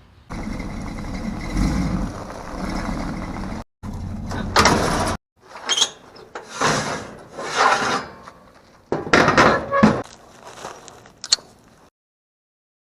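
1970 Chevrolet C10's engine running loud through new headers, full 3-inch exhaust and Black Widow mufflers with side exits: a steady idle for a few seconds, then a series of short revs, one after another, in cut-together clips.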